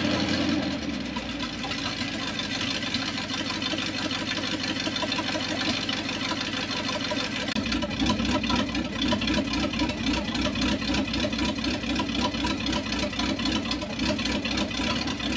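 1978 Chevy K10 pickup engine idling to warm up after its first run in a long time on fresh gas. It slows about a second in, and about halfway through the idle gets louder with a low, even pulse.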